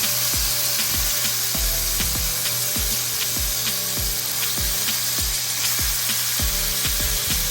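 Chicken sizzling in a hot cast iron skillet, over background music with a steady bass beat.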